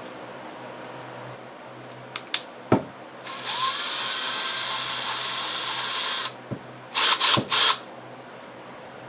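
A handheld power tool, such as a small drill, runs steadily for about three seconds. It is then triggered in three short bursts, and a few clicks come just before it starts.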